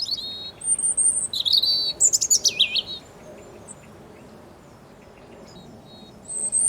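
European robin singing: a phrase of high, varied whistled notes and trills over the first three seconds, a pause, then the next phrase starting near the end.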